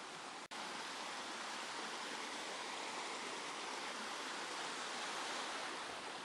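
Mountain stream water rushing steadily, with a momentary dropout about half a second in.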